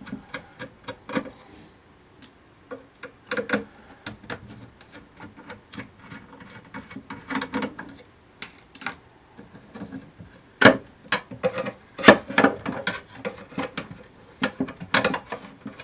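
Irregular clicks, taps and knocks of an electronics enclosure and its circuit boards being handled while a driver board and its display module are worked free, with a louder run of knocks about ten to thirteen seconds in.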